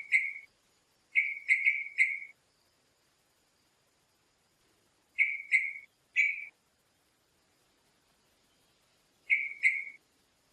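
A bird giving short, clear whistled calls in quick groups of two to four notes, four groups with pauses of a few seconds between them.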